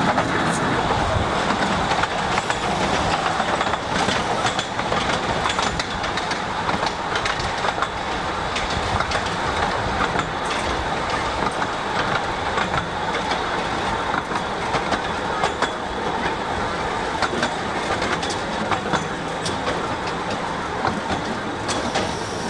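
Ravenglass and Eskdale Railway's 15-inch-gauge train running steadily, its coaches rattling with irregular clicks from the wheels on the track, heard from aboard.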